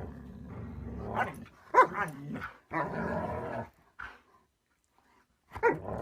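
A dog growling and barking: a low, continuous growl broken by a few sharp barks, then a short pause and one more bark near the end.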